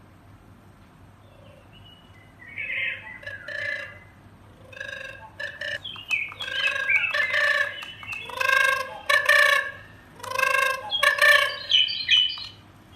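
Recorded fowl calls played through the loudspeaker of an electronic hunting game caller: after a quiet start, a run of loud, pitched calls, several in a row, going on until near the end.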